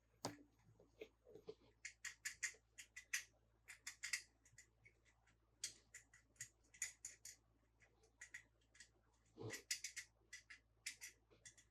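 Quick, irregular light clicks and crackles of small toys being handled, coming in short clusters throughout.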